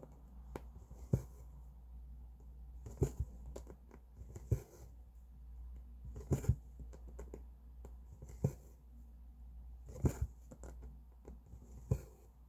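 Cross-stitch needle pushed and pulled through taut stitching fabric, giving a soft sharp tap every one to two seconds, sometimes two close together. A steady low hum runs underneath.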